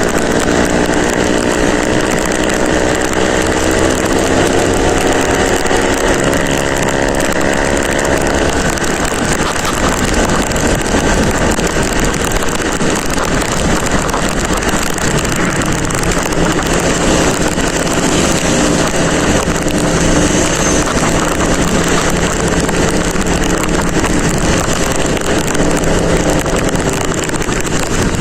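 Motorcycle engine running under way, its pitch rising slowly for about the first eight seconds as it gathers speed. After that heavy wind noise on the microphone mostly covers it.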